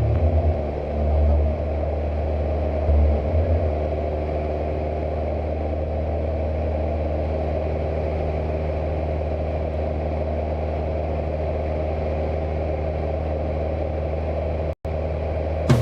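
Cessna 172's piston engine and propeller running with a steady, even drone in flight, with a few low rumbles in the first few seconds; the sound cuts out for a split second near the end.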